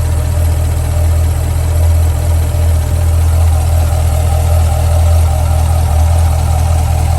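Chevrolet Corvette C8's V8 engine idling steadily, its sound mostly a deep, low hum.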